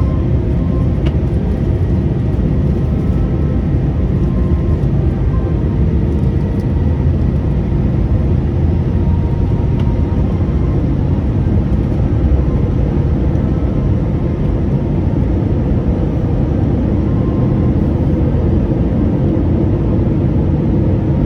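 Airliner cabin noise: a steady, unchanging low rumble and rush of engines and airflow heard from inside the passenger cabin, with faint steady tones above it.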